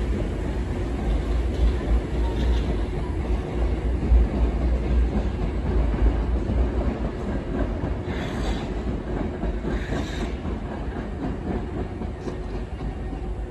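Hankyu electric train rolling through Osaka-Umeda station: a steady low rumble of wheels on rail with a faint hum. Two short hisses come a couple of seconds apart, about two-thirds of the way through.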